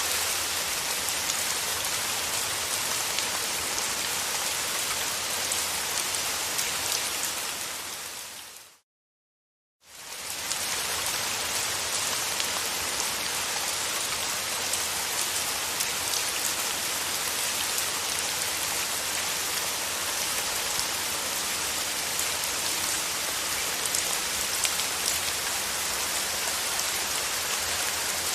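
Steady rain falling, a dense even hiss of drops. About nine seconds in it fades out to silence for about a second, then fades back in.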